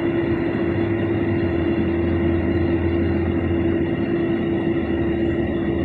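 Farm tractor running steadily while baling hay with an M&W round baler, a constant mechanical drone with a steady hum.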